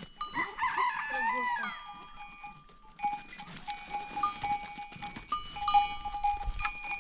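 A flock of goats and sheep with bells on, the bells ringing in several steady overlapping pitches. A wavering bleat sounds in the first two seconds.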